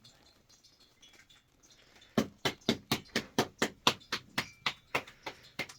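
A steady run of sharp knocks, about four a second, starting about two seconds in.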